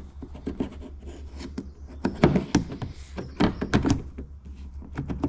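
Irregular clicks and knocks of plastic car-door fittings being handled and pressed into place, loudest about two seconds in and again around three and a half to four seconds, over a steady low hum.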